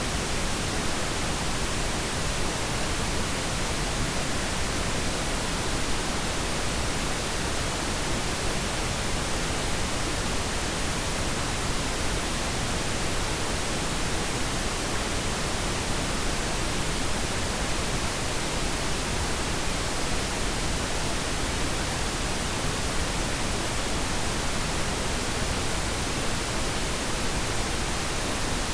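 Steady, unchanging pink noise: an even hiss spread across all pitches, softer in the highs than white noise.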